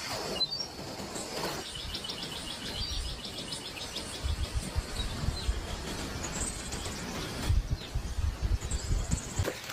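Birds calling outdoors: a rapid, even high trill of about ten notes a second lasting a couple of seconds, then a few short high chirps. Irregular low thumps throughout, loudest near the end.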